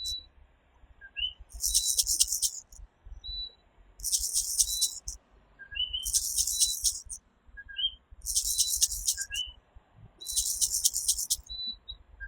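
Puerto Rican coquí tree frogs calling their two-note "co-quí", a short low note followed by a higher one, about every two seconds. Between the frog calls comes a louder, higher, buzzy call of about a second, made of rapid pulses, repeating at the same pace.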